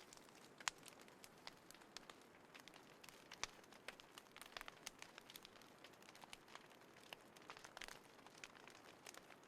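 Small wood fire crackling faintly: irregular sharp snaps and pops over a soft hiss, a couple of them louder.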